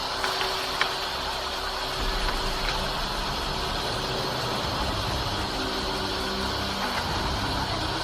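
An engine running steadily, with a couple of faint clicks in the first second and a deeper rumble from about two seconds in.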